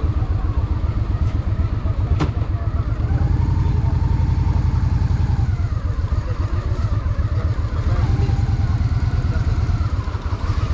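Honda Shadow VT750's V-twin engine running at low revs, its exhaust pulsing steadily as the bike cruises, with a short sharp click about two seconds in.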